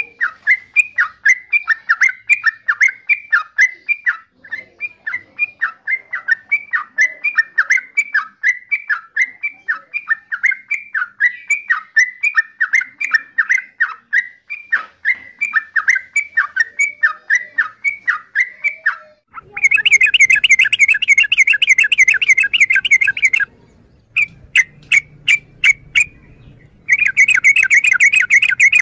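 Yellow-vented bulbul calling: a fast series of short, bubbly notes, about three a second. From about twenty seconds in it turns to a denser, louder chatter, which breaks off briefly and starts again near the end.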